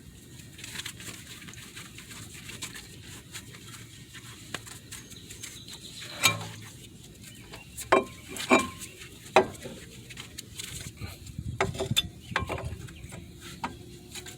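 Metal clinks and knocks of a 2006 Kia Spectra front brake caliper being fitted back over new pads, with tools handled. There are light scattered clicks, then a few sharp ringing clanks between about six and nine and a half seconds in, and lighter clatter after that.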